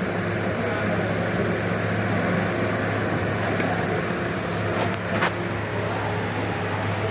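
2008 Hyundai Elantra engine running steadily, a constant low hum under an even mechanical noise, with two short clicks about five seconds in.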